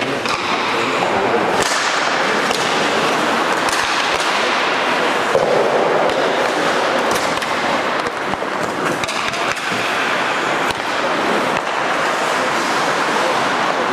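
Ice hockey play on the rink: skate blades scraping and carving the ice, with frequent sharp clacks of sticks and puck.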